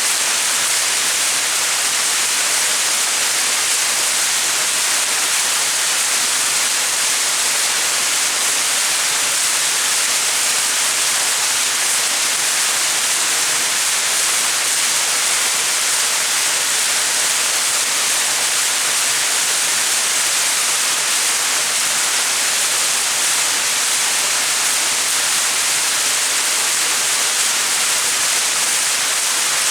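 A small mountain waterfall pouring: a loud, steady rushing hiss, strongest at the high end, with no breaks.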